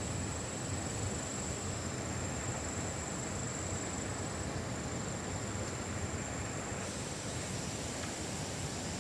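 Steady outdoor background noise, a low even rushing hiss, with a continuous thin high insect tone over it.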